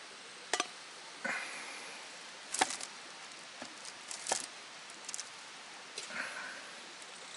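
A few sharp knocks at irregular intervals, the loudest about two and a half seconds in, with lighter ticks and two brief scraping rustles between them.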